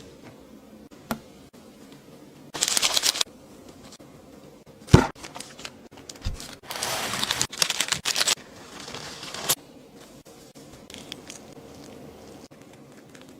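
Short bursts of crinkling, one about three seconds in and a longer run around seven to eight seconds, with a single sharp knock about five seconds in.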